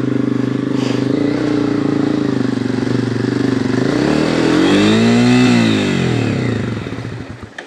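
Dirt bike engine running at a steady pace, then revving up about four seconds in and falling away again. The engine sound drops off near the end.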